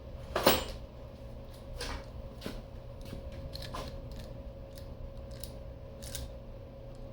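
Small metal clicks and clacks of a door latch being handled and adjusted for its backset: one sharp click about half a second in, then lighter clicks every second or so, over a steady background hum.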